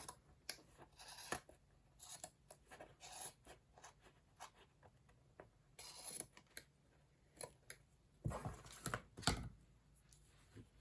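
Scissors snipping and crafting materials rustling and scraping on a work surface, in short irregular strokes, with two louder thumps near the end.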